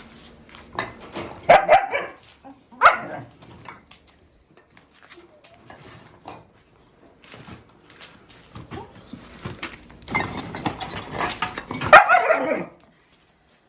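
Dogs barking in short outbursts: two sharp ones in the first few seconds, then a longer, louder bout near the end.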